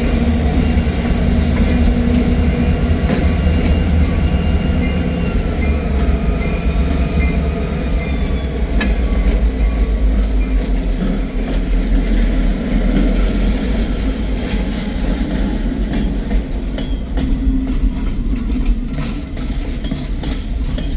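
Freight train rolling past: a steady heavy rumble of wheels on rail, with thin high-pitched wheel squeal through the first half and scattered sharp clicks later on.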